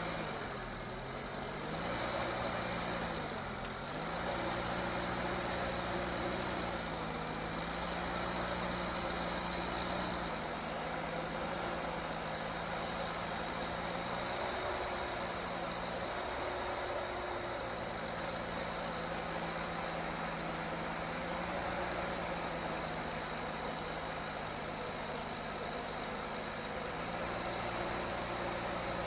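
A heavy vehicle's engine running at low revs; its note sags and recovers twice in the first few seconds, then holds steady.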